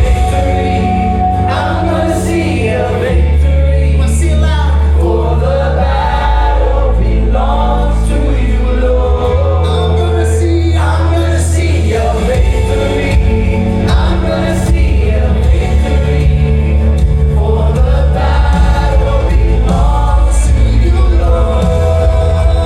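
Live gospel worship music: a band with strong sustained bass notes that shift every few seconds, under sung voices with a choir-like blend.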